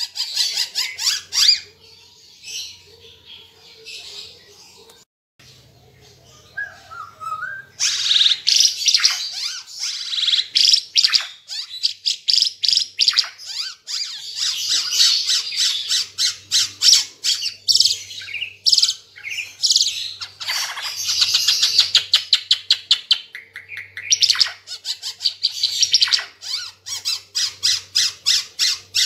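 A burung Ara Timor songbird singing loudly in long, fast runs of high chirps and rapid repeated notes. It is fainter and more broken for the first several seconds, then sings almost without pause.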